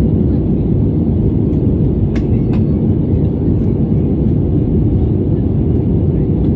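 Steady low rumble of airliner cabin noise in flight: jet engines and airflow heard from inside the passenger cabin.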